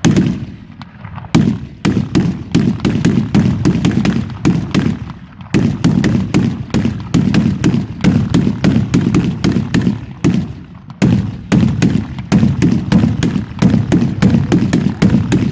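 Professional fireworks display: a rapid barrage of sharp bangs from exploding shells and salutes, several a second, each leaving a low echoing rumble, with brief lulls about every five seconds.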